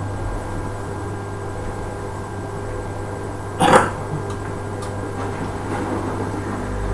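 Hoover Ecologic 800 automatic washing machine running on its rinse cycle, a steady hum, with one short noisy burst about halfway through.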